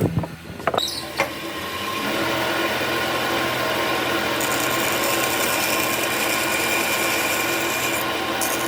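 A few sharp knocks and clicks, then a power tool starts up about two seconds in and runs steadily.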